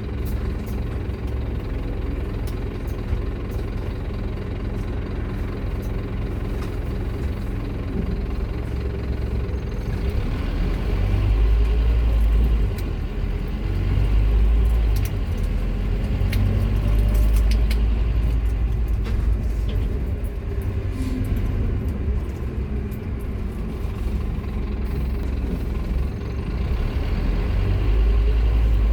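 Scania K230UB single-decker bus's five-cylinder diesel engine running under way, a steady low rumble that swells in several bursts of acceleration from about a third of the way in, with faint rising pitch as it pulls through the gears.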